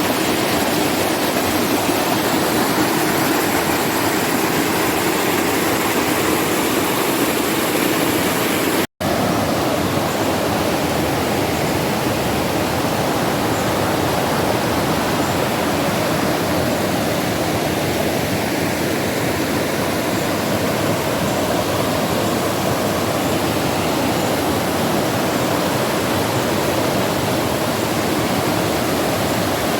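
Rushing river water, a steady, loud wash of noise that cuts out for an instant about nine seconds in.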